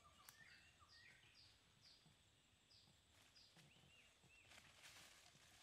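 Faint bird calls: a quick run of short, falling chirps, then a few lower arched notes about four seconds in. Brief rustles of leaves and branches come near the start and again about five seconds in, as someone pushes through dense brush.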